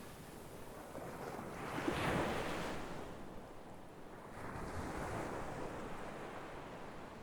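Sea waves surging in and washing back, in two swells. The louder swell peaks about two seconds in and a softer one comes around five seconds.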